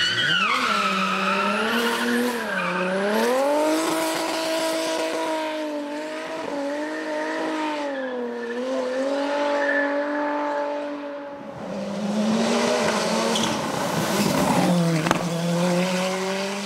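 Race car engine at full throttle, its pitch climbing and dropping again and again through gear changes and corners, with tyres squealing.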